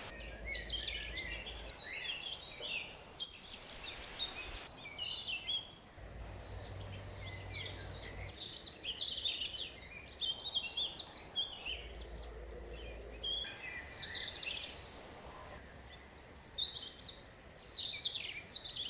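Woodland birds singing, a busy run of short chirps and warbling phrases that comes and goes throughout, over a soft steady outdoor hiss.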